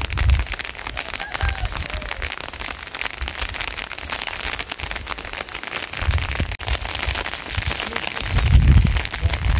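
Heavy rain pattering hard and fast, a dense crackle of drops striking a hard surface. Low rumbling swells come and go, strongest about six and eight and a half seconds in.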